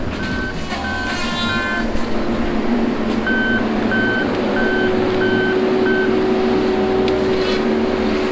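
A heavy logging machine's diesel engine running steadily while its back-up alarm beeps about one and a half times a second, in two runs with a pause between.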